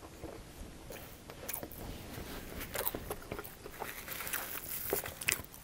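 Close-miked chewing of crunchy, sauce-coated chicken wings: wet mouth clicks and crunches come thick and fast in the second half. Near the end a paper napkin crinkles as it is wiped across the face.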